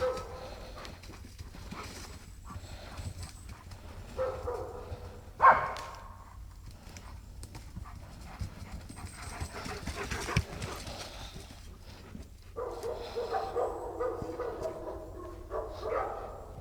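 Young dogs playing, with panting and pitched vocal sounds. A longer stretch of vocalising starts about three quarters of the way through, and there is one loud sharp sound a little after the five-second mark.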